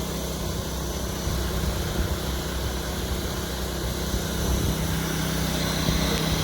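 Bee vacuum running with a steady motor hum while it sucks up honeybees from a hive in a fallen branch.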